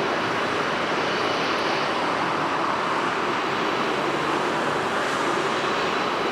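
Jet airliner engines roaring steadily as the aircraft passes close by on Narita's runway 16R approach or departure.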